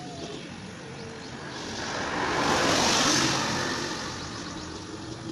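A vehicle engine running, swelling to its loudest about three seconds in and then fading.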